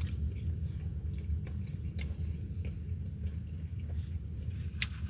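Someone chewing a mouthful of lobster roll with the mouth closed: soft wet chewing with a few small clicks, over a steady low hum.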